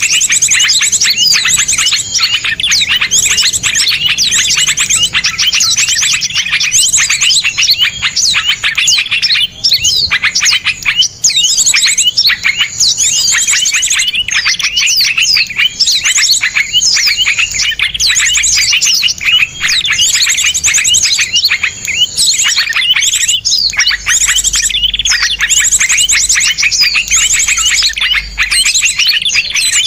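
Several small songbirds singing together in a dense, unbroken stream of rapid, sharp chirps and trills.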